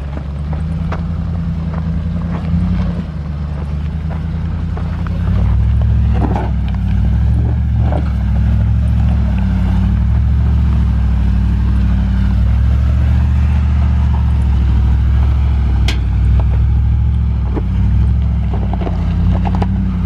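Ford F-150 FX4 pickup's engine pulling the truck at a crawl in first gear, a steady low hum that grows louder about five seconds in as it takes more load. Occasional clicks and knocks sound over it.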